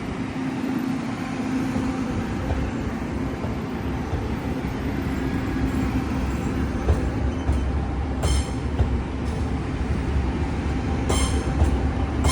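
Chu-Kuang Express train running on the rails, a steady low rumble of its cars, with two brief high metallic squeals about eight and eleven seconds in.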